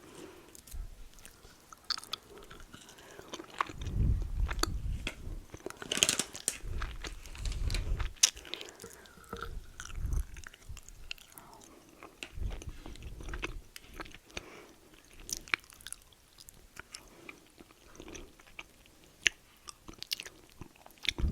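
A person chewing and biting bite-sized fruit-flavoured candies, with irregular crunches, wet clicks and heavier chewing bouts every few seconds.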